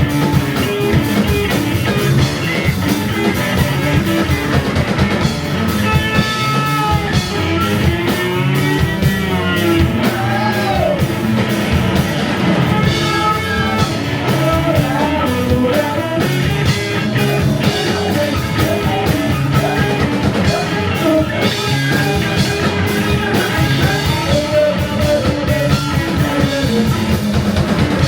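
Psychedelic rock band playing live: electric guitar, bass and drum kit under a wavering lead melody with vibrato.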